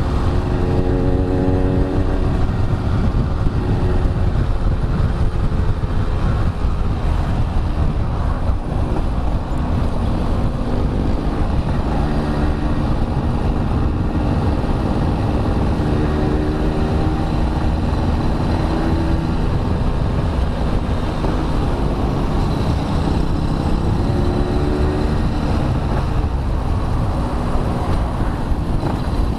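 Yamaha RX-King two-stroke single-cylinder motorcycle engine running under way, its pitch rising and falling with the throttle, over a steady rush of wind noise.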